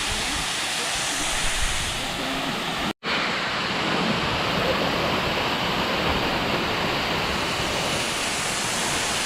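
Steady rushing of a waterfall's water pouring down rock, cutting out for an instant about three seconds in.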